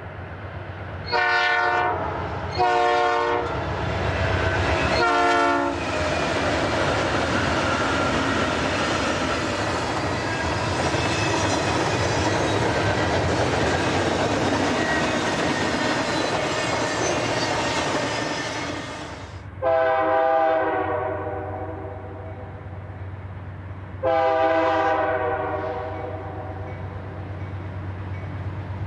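GE diesel freight locomotives' air horn sounding three short blasts, then a freight train of highway trailers rolling past, its wagons rumbling and clattering on uneven track. The noise then changes abruptly to an approaching GE locomotive lashup: two longer horn blasts about four seconds apart over the steady low rumble of its diesel engines.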